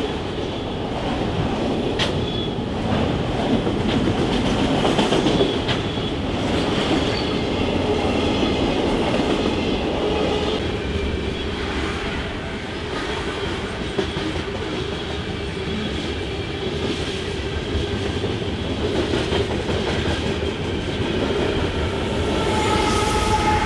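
Freight train rolling past: steel wheels clacking over the rail joints with a steady high-pitched wheel squeal over the rumble of the cars. A new pair of steady tones comes in near the end.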